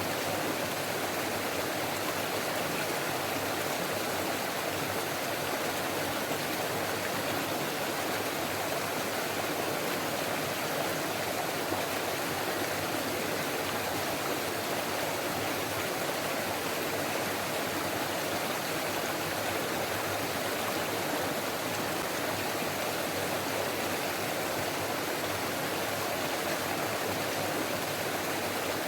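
Forest stream babbling and rushing over rocks, a steady even flow of water.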